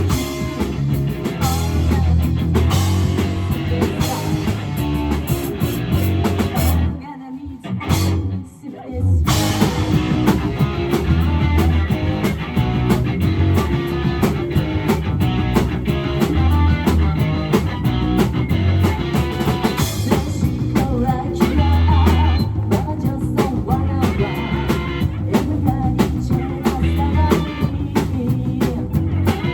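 Live rock band playing with drum kit, bass and electric guitar, and some singing. The music breaks off almost completely for about two seconds near a quarter of the way in, then comes back in full.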